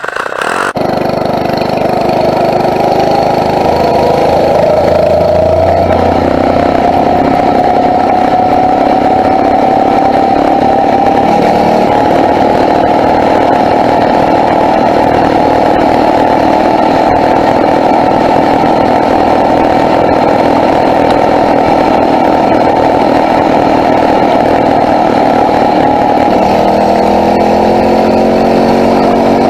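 Phatmoto four-stroke motorized bicycle engine running while riding, its pitch rising over the first several seconds as it speeds up, then holding steady. Near the end the engine note drops as the bike slows.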